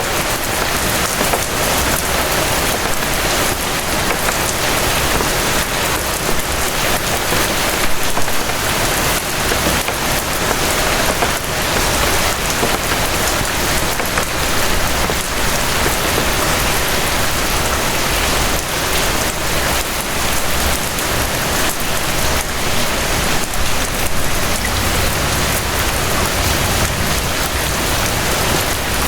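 Steady rain falling, a dense hiss full of small drop ticks, with a faint low rumble near the end.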